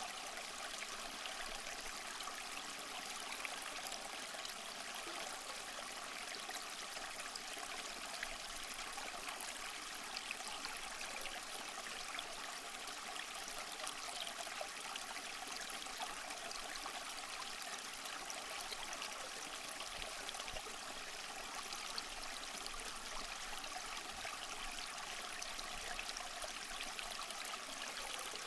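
Small waterfall splashing and trickling over mossy rocks: a steady, even rush of falling water with fine splattering detail.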